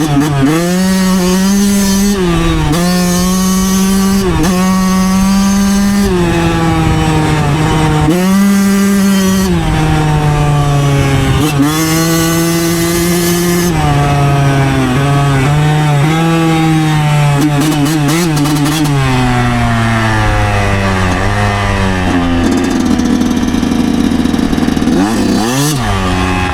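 2009 Yamaha YZ125's two-stroke single-cylinder engine under way, rising in pitch and stepping back down again and again as the throttle is worked through the gears. Near the end it drops to a lower, steadier note, with one quick blip of the throttle just before the end.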